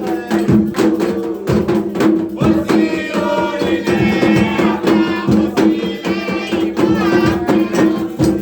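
Afro-Brazilian atabaque hand drums playing a steady, dense rhythm, led by the rum drum. Voices join in singing from about two and a half seconds in.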